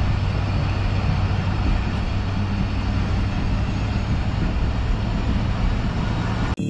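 Diesel-hauled passenger train passing close at speed: a steady loud rush of wheels on rail over a low locomotive engine drone, cut off suddenly near the end.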